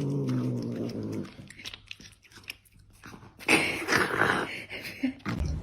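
A pet animal's drawn-out vocal sound, then a few faint clicks and a short noisy burst about three and a half seconds in.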